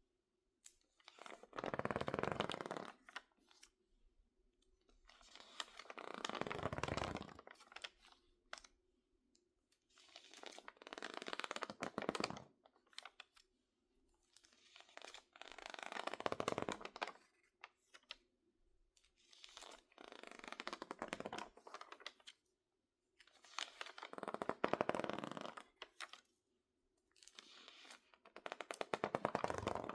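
Stiff, crinkled magazine pages, water-damaged by misting and drying, crackling and crinkling as they are handled close up, in about seven crackly bursts roughly every four to five seconds.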